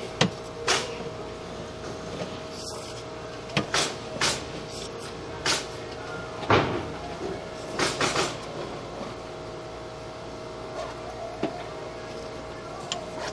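Sewer inspection camera head knocking and scraping against the walls and joints of 4-inch 3034 plastic sewer pipe as it is pushed down the line, heard through the camera's own microphone. The irregular clunks come every second or so over a steady faint hum, with drain water running in the pipe.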